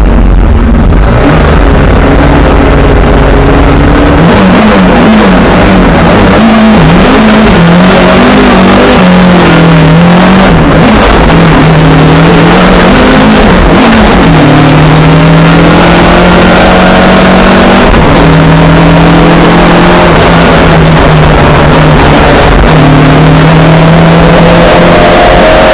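Mk2 Ford Escort rally car engine revving hard, very loud, its pitch climbing and falling again and again with throttle and gear changes, with a deep rumble in the first few seconds.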